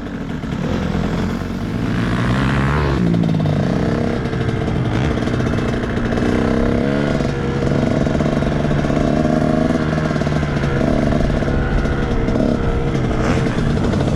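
Dirt bike engine running hard on a motocross track, its pitch rising and falling again and again as the rider works the throttle and shifts.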